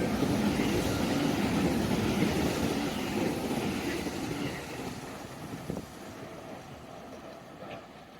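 A train running past on the line, loud at first and then fading steadily as it moves away.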